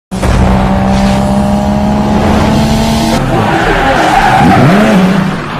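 A car sound effect: an engine note held steady for about three seconds, then a screeching stretch with a pitch that dips and climbs back, fading near the end.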